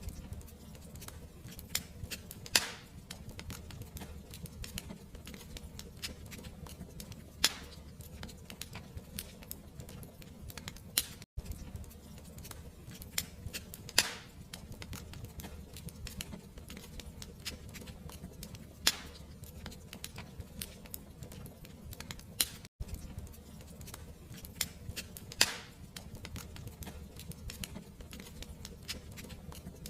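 Wood fire crackling: a constant patter of small crackles over a low rumble of flame, with a sharper pop every several seconds. The sound cuts out for an instant twice.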